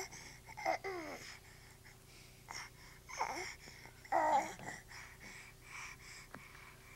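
Baby babbling: three short high-pitched vocal sounds, about a second in, at three seconds and at four seconds, some sliding down in pitch.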